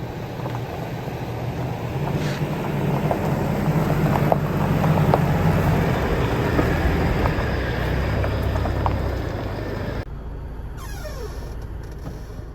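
Motor vehicle engine running with a steady low rumble whose pitch shifts partway through; about ten seconds in it cuts off abruptly to a quieter passage with a falling tone.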